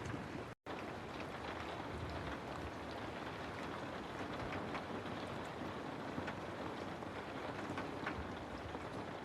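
Steady rain falling, with a dense patter of individual drops. Just after half a second in the sound cuts out completely for a split second, then resumes.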